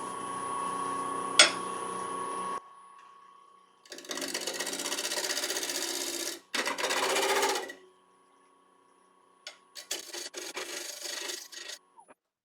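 Bowl gouge cutting the rim of a spinning sycamore bowl blank on a wood lathe to true it up: a rasping cut in separate passes, one at the start, two more about four seconds in, and a run of short broken cuts near the end. Under the cuts the lathe motor whines steadily, with a sharp click about a second and a half in, and the motor stops just before the end.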